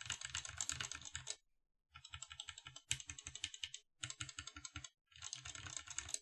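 Mechanical keyboard fitted with vintage Cherry MX Black linear switches, typed on rapidly in four quick runs of keystrokes with short pauses between.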